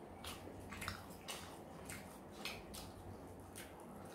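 Close-miked eating sounds of chicken leg and fried rice eaten by hand: soft, irregular mouth clicks and smacks of chewing, two or three a second, with fingers pulling at the cooked chicken.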